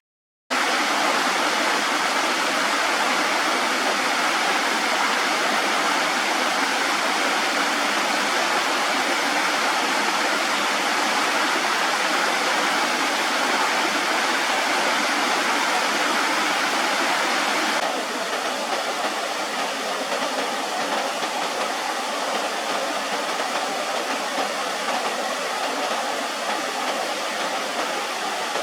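Running water, a steady rushing noise. It cuts out for a moment at the very start, and about 18 seconds in it changes abruptly to a slightly quieter, thinner rush.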